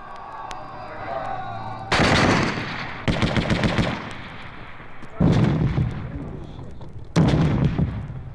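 Battle sound effect: four loud bursts of rapid gunfire, machine-gun style, starting about two seconds in and coming every one to two seconds, each trailing off into echo.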